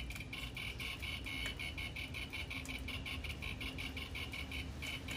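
Handheld ghost-hunting EMF meter (Ghost Meter Pro) giving a rapid, steady run of high electronic chirps, about five a second, the sign that it is registering an electromagnetic field. A low steady rumble sits underneath.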